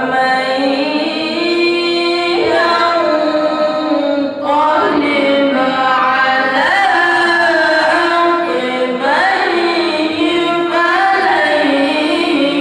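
A solo voice singing long, ornamented melismatic phrases, with notes held and bent in pitch, starting just at the beginning.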